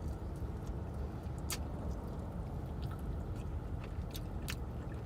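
A person chewing fried chicken wings, with scattered sharp wet mouth clicks and smacks, over a steady low rumble inside a car.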